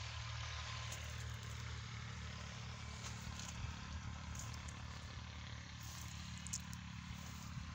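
A steady low engine hum, as of an engine idling or running at an even speed, with a faint hiss over it and a few light ticks.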